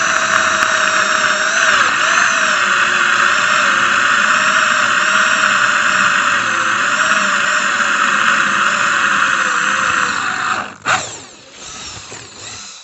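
Electric drill running under load with a high squeal and a slightly wavering pitch. It stops about ten and a half seconds in and winds down.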